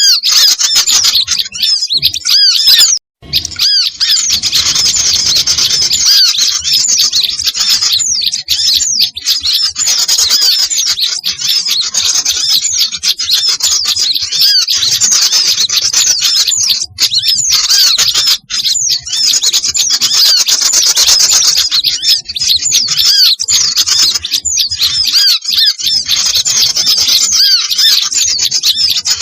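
A busy chorus of many small songbirds chirping and twittering over one another, a bird-trapping lure recording. It is dense and loud, with a momentary break about three seconds in.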